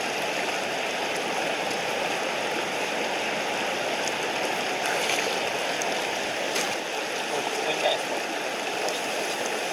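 Mountain stream running, a steady rush of water with no break.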